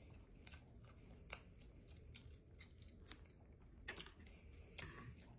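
Close-miked chewing of a mouthful of breaded fried catfish sandwich: faint soft crunches and scattered crisp mouth clicks, a few sharper ones about a second in and near the end.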